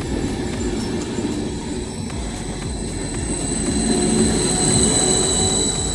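Double-decker electric multiple-unit train at the platform: a low rumble of the running gear with a steady high-pitched whine, which swells louder about four seconds in.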